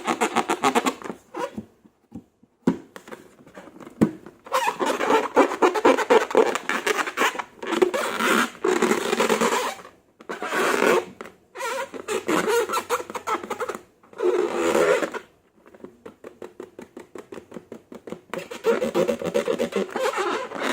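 Slime being squeezed and worked by hand: fast runs of wet crackling and popping in bouts of a few seconds, with short pauses between.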